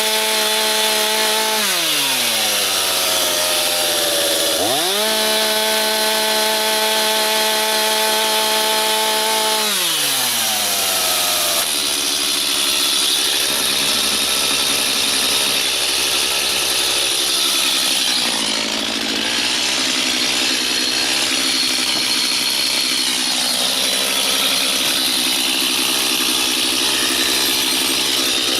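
Stihl two-stroke chainsaw running at high revs. Twice the throttle is let off, about two seconds in and again near ten seconds, so the engine note falls toward idle before it is revved back up. In the second half the note is lower and wavers as the chain cuts through lumber under load.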